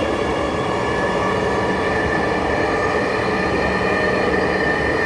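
Dhaka Metro Rail train running between stations, heard from inside the carriage: a steady rumble of the running gear with a steady whine from the drive.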